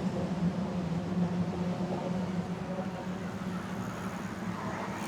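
Steady low hum of passing road traffic, with a vehicle's tyre noise swelling near the end.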